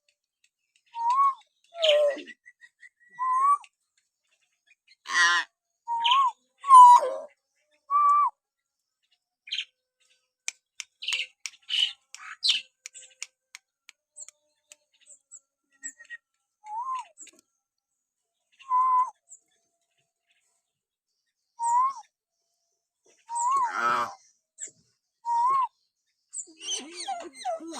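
Hill myna whistling: short whistles that each rise and fall quickly in pitch, spaced a second or more apart, mixed with harsh rasping calls and, around the middle, a quick run of dry clicks.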